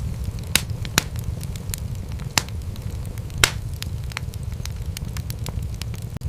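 Wood fire in a fireplace crackling and popping over a steady low rumble, with a few sharper pops, the loudest about three and a half seconds in.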